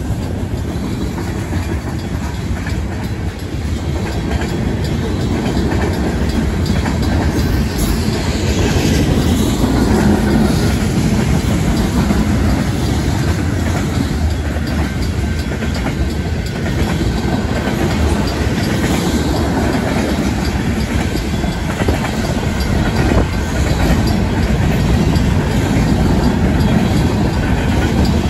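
Freight cars of a Union Pacific manifest train rolling through a grade crossing: a steady heavy rumble with the clickety-clack of wheels over the rail joints and crossing. The crossing's bells ring under it, one electronic and one mechanical, as the crossing is still activated.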